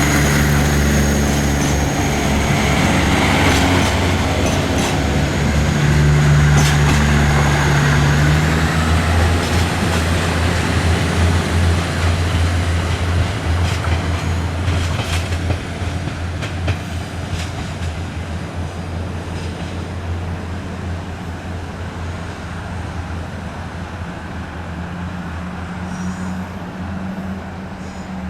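Passenger train moving along the track, its wheels clicking over rail joints among a low steady running tone. The sound fades gradually over the second half.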